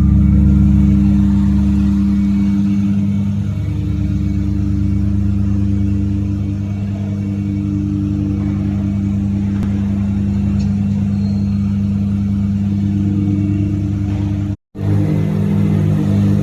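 Mazda RX-7 FD's 13B twin-rotor rotary engine running at low, steady revs, loud and even. About fifteen seconds in it cuts out for a split second, then it comes back with slightly uneven revs.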